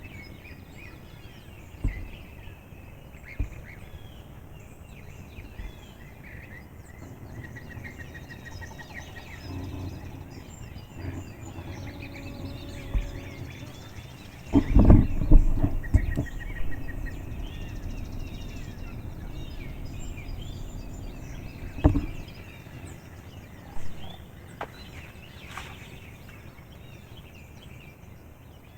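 A wild turkey gobbler gobbles once, loud and close, about halfway through, over songbirds chirping and trilling. A few short knocks are heard early on and again later.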